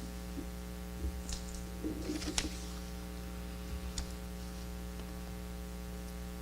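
Steady electrical mains hum with a few faint clicks and rustles.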